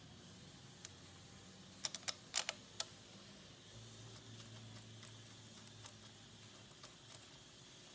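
Scattered light clicks and taps, with a quick run of louder clicks about two seconds in, over a faint low hum.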